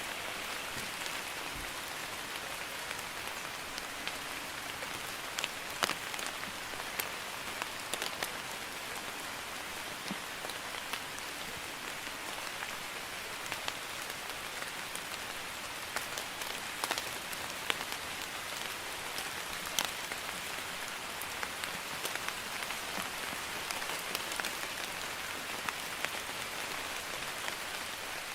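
Steady drizzle falling, a soft even hiss of rain with scattered individual drops ticking sharply on a surface.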